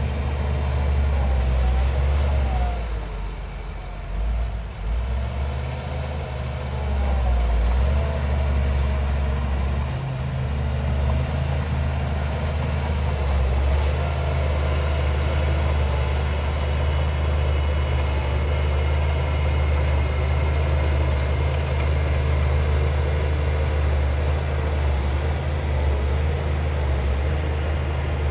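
Heavy diesel engine running steadily with a deep, low hum. It eases off a few seconds in, then holds steady again.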